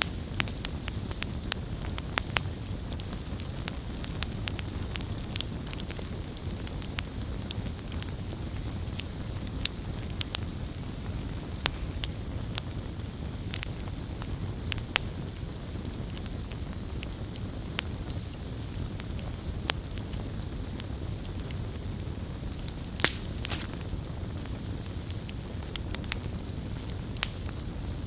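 Wood campfire crackling: a steady low rumble of burning with frequent sharp pops and snaps, the loudest pop about 23 seconds in.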